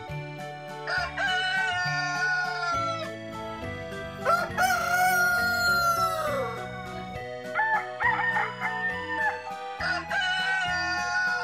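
Roosters crowing several times in succession, one long crow ending in a falling note, over background music with a steady beat.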